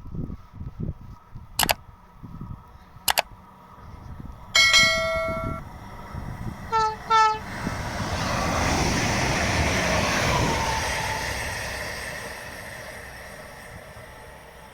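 Train horn sounding once for about a second, then two short blasts, followed by a train passing at speed, its rush swelling and then fading away. Two sharp clicks come before the horn.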